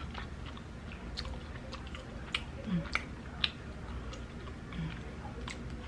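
Close-miked mouth sounds of someone eating mussels: scattered wet chewing smacks and clicks, the loudest bunched about two and a half to three and a half seconds in.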